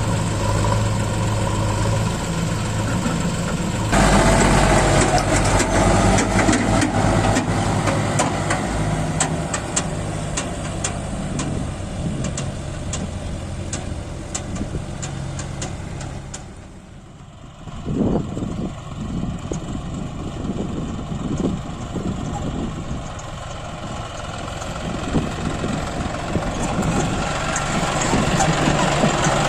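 Heavy diesel engine running, with a sudden jump in loudness a few seconds in and a run of sharp rattling ticks after it. Past the middle the sound drops away briefly, then uneven knocks follow and the engine builds up again.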